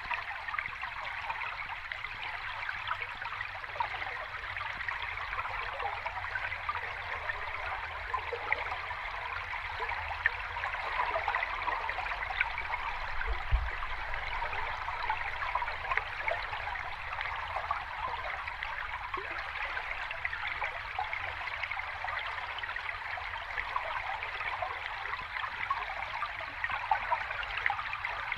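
Sea water gently washing and trickling at the shore, a steady fizzing wash full of small crackles, with no big breaking waves.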